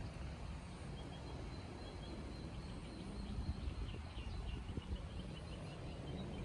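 Small birds chirping in a quick run of short, high calls over a steady low rumble.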